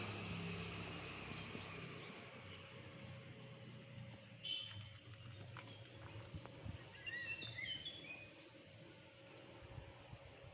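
Quiet outdoor ambience with birds chirping: a short call about four and a half seconds in, then a run of brief chirps a couple of seconds later.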